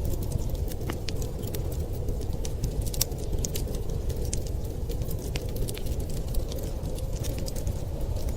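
Wood fire crackling and popping in irregular sharp snaps over a steady low rumble of storm wind.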